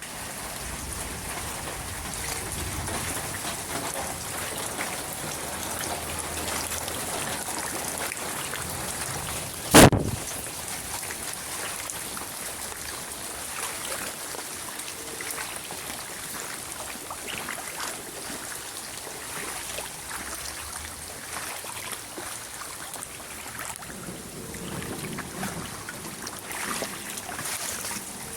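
Steady rain falling, with one very loud, sharp crack of close thunder just before ten seconds in.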